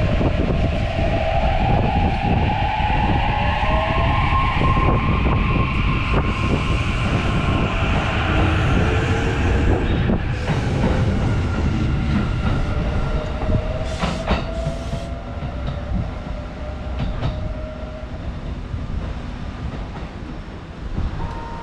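Kintetsu Shimakaze electric train moving along the platform, with wheels rumbling on the rails and a whine that rises in pitch as it gathers speed. A few sharp clicks come about two-thirds of the way through, and the sound fades as the train draws away.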